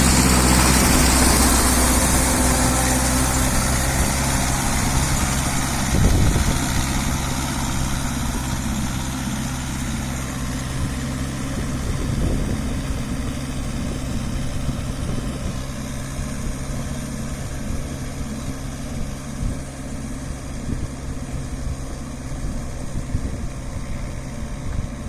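A VST Shakti MT270 mini tractor's diesel engine running steadily, slowly growing fainter, with a brief louder moment about six seconds in.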